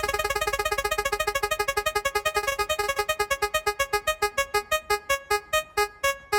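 Electronic tick sound effect of an on-screen spinner wheel. Each segment it passes gives a short pitched tick, fast at first and slowing steadily as the wheel winds down.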